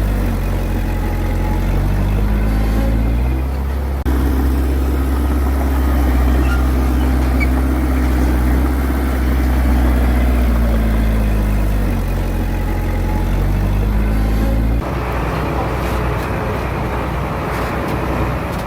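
Heavy diesel engine of earthmoving equipment running hard, its pitch rising and falling as it works. The sound breaks off abruptly about four seconds in and changes sharply near the end.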